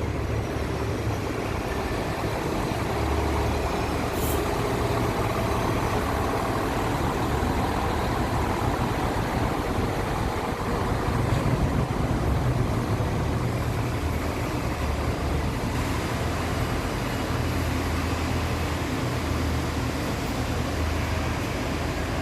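Hyundai four-axle dump truck's diesel engine running steadily, with a slight swell in loudness about eleven seconds in.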